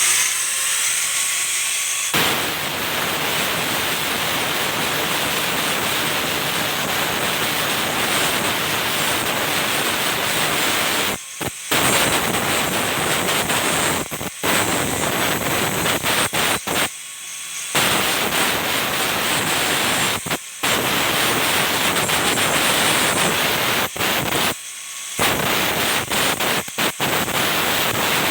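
Angle grinder spinning up with a rising whine, then grinding down a steel weld bead with a steady harsh noise, broken by a few brief drops.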